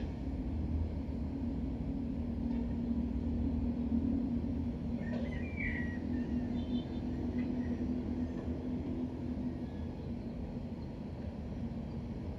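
A steady low mechanical rumble with a constant hum, like an engine or vehicle running. Faint short high chirps come in about five seconds in.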